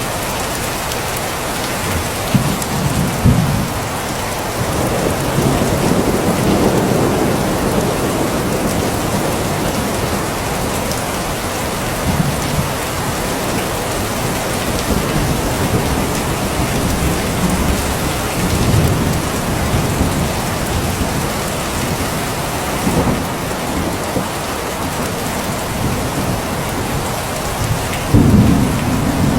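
Steady heavy rain hissing on surfaces, with low rolls of thunder rumbling in and out: a few in the first several seconds and a louder one near the end.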